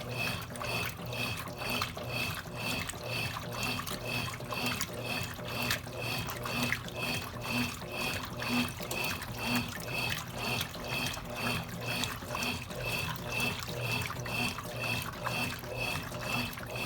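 Consul Cargo 8 kg washing machine running with water moving in the tub. There is a steady hum and a regular pulse that repeats a few times a second.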